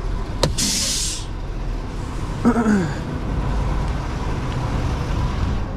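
Short burst of air hissing from a truck's air brakes about half a second in, just after a click, then the truck's engine idling steadily.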